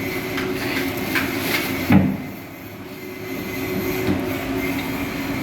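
A few sharp knocks, then one loud thump about two seconds in, over a steady machine-like hum.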